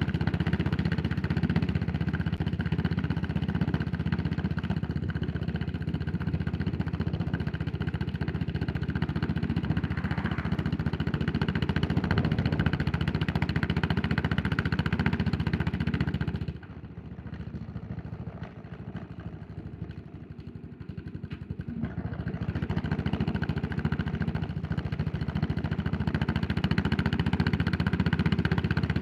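Yamaha SR400's air-cooled single-cylinder engine running under way. About two-thirds of the way through, the engine sound drops suddenly to a much quieter, low-revving note for around five seconds, then builds back up again.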